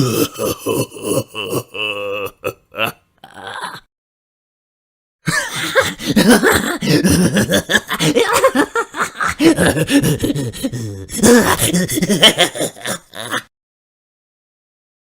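Two laughing sound effects one after the other: a short burst of rhythmic, pulsed laughter, a pause of about a second and a half, then a longer stretch of loud laughter that stops abruptly a couple of seconds before the end.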